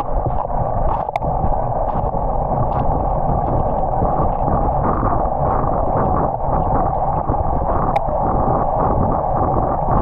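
Steady wind rush on a bicycle-mounted microphone, mixed with wet-road noise, while riding in the rain. Two brief sharp clicks, about a second in and near the end.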